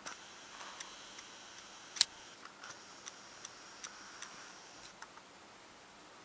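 Samsung WB2000 camera's own recorded self-noise: a faint steady high-pitched electronic whistle under hiss, with sharp clicks. One loud click comes about two seconds in, followed by a run of evenly spaced ticks, about two and a half a second.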